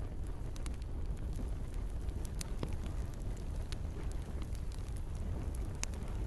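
Campfire crackling: scattered sharp pops and snaps from burning wood over a steady low rumble.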